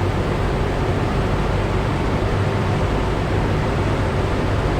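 Cessna 172 cabin noise in a power-off descent: the engine and propeller drone steadily at low power under a constant rush of wind over the airframe.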